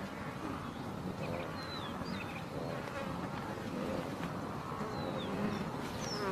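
Outdoor savanna ambience of insects buzzing steadily, with a few short, high, falling bird chirps.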